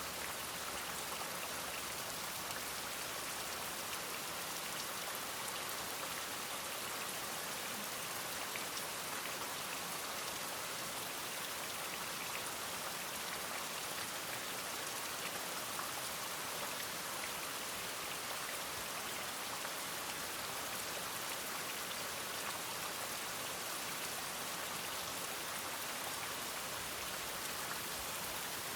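Steady rain falling and pattering on a surface, an even hiss with no thunder or barking standing out.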